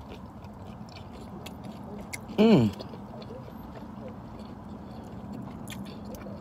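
A person chewing a mouthful of fried veggie egg roll close to the microphone, with scattered soft mouth clicks, and a short hum falling in pitch about two and a half seconds in.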